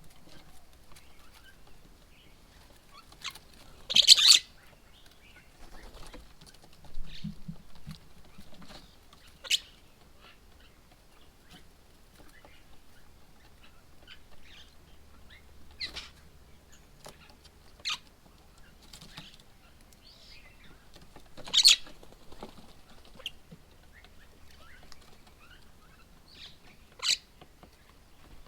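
Birds at a bird table: scattered sharp flutters and taps, about half a dozen, loudest about four seconds in and again about two-thirds of the way through, with faint bird chirps between.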